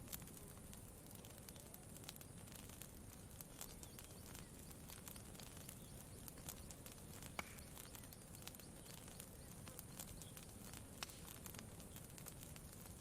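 Campfire crackling softly: scattered small pops and snaps, one a little sharper about seven seconds in, over a faint steady low background.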